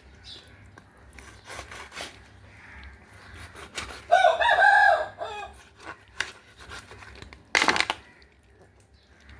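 A rooster crows once, a call of about a second, some four seconds in. A short, sharp knock comes about three seconds later.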